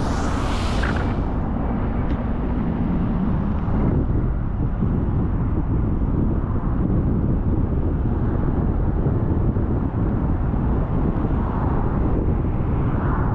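Car driving on a rain-wet road, a steady low rumble of tyre and engine noise, with a short hiss in about the first second.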